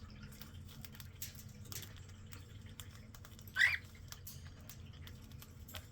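A pet bird gives one short rising chirp about halfway through, over scattered light clicks and rustling.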